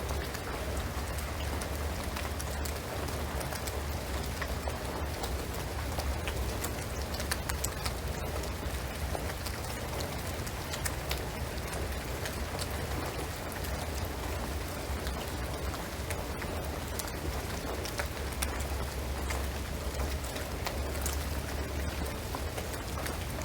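Steady rain falling on a shingled roof and pine trees, with many separate drops tapping through the hiss and a steady low rumble underneath.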